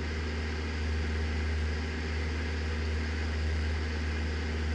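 Cessna 172's piston engine and propeller droning steadily in flight, heard from inside the cabin, with an even rush of air and engine noise and no change in pitch.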